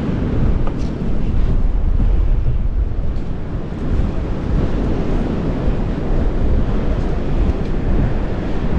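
Strong wind buffeting the microphone, a loud steady low rumble, with surf behind it.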